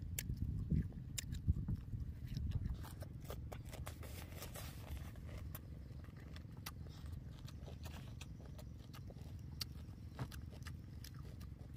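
A person eating close to the microphone: chewing with many sharp mouth clicks and smacks, and a couple of louder bites in the first two seconds, over a steady low rumble.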